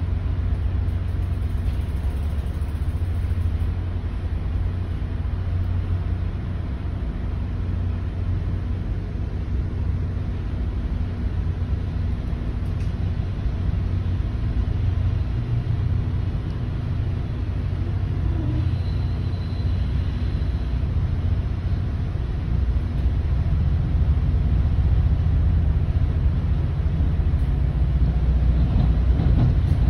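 MBTA commuter rail train, diesel-hauled, heard from inside a passenger coach as it pulls away and picks up speed: a steady low running noise that grows louder over the last several seconds.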